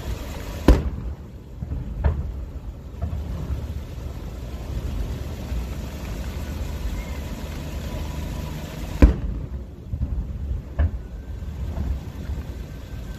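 Aerial fireworks going off: two loud bangs, one about a second in and one about nine seconds in, each followed by a fainter crack a second or two later, over a steady low rumble.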